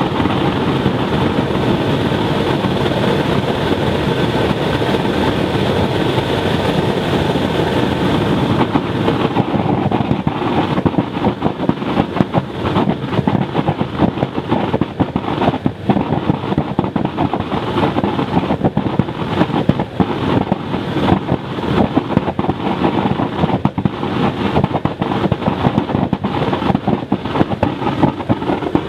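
Waste-oil burner made from an old car muffler, running on blower air: a loud steady rush of flame and air. About a third of the way in it turns rough, with rapid crackling pops in the flame.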